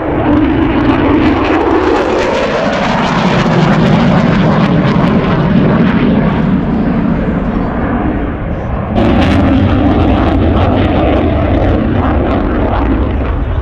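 B-17 Flying Fortress's four radial piston engines droning loudly as the bomber flies past. The pitch drops over the first few seconds as it goes by, and the sound surges back up suddenly about nine seconds in.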